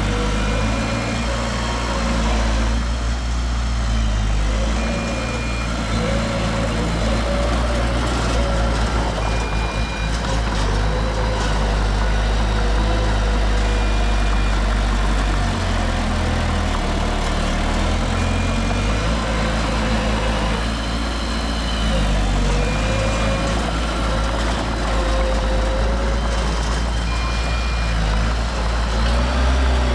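Heavy diesel construction machinery running steadily with a deep engine hum that shifts pitch as it works. A short high beep sounds about every four to five seconds, a machine's warning beeper.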